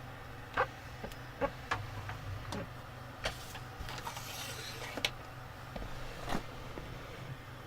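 A steady low hum with scattered light clicks and taps, about seven of them, irregularly spaced, and a short hiss about three and a half seconds in.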